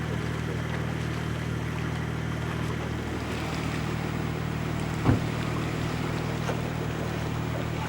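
A Jeep's engine running steadily at idle, with a single short thump about five seconds in.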